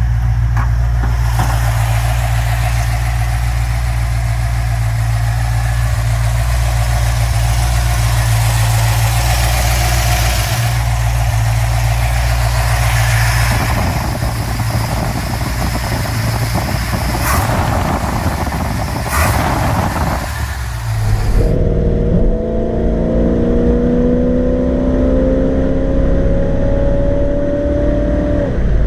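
Car engine running with a steady low rumble; about three quarters of the way through the sound changes abruptly to an engine accelerating, its pitch rising slowly.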